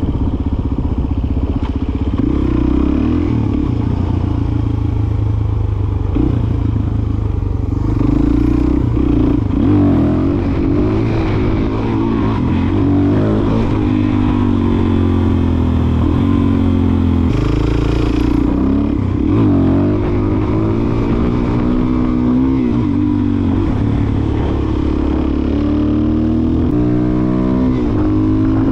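Suzuki DR-Z400SM's single-cylinder four-stroke engine running while ridden. The revs rise and fall repeatedly, as with throttle changes and gear shifts, and climb steeply near the end.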